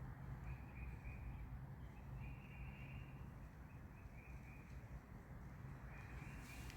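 Birds singing faintly: short high notes repeated in small groups again and again, over a low steady background rumble.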